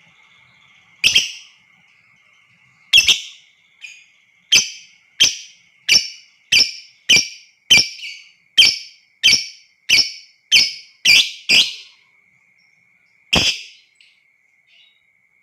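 Lovebird giving loud, shrill, sharp calls: two spaced calls, then a run of about fifteen at roughly two a second, then one last call. The recording is a lure call played to set other lovebirds calling. A faint, steady high tone runs underneath.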